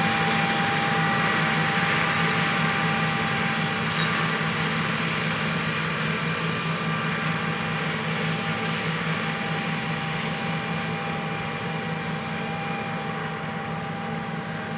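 John Deere S670 combine running while harvesting soybeans: a steady machine drone with a high whine, slowly getting quieter.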